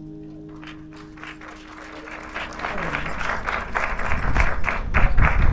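The final acoustic guitar chord of the song rings out and fades over the first couple of seconds, while audience applause starts about half a second in and grows louder.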